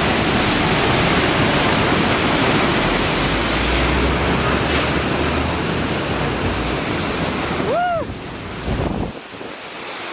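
A 70-foot waterfall pouring, a loud steady rush of falling water, with wind buffeting the microphone and adding a low rumble about midway through. The rush drops away sharply near the end.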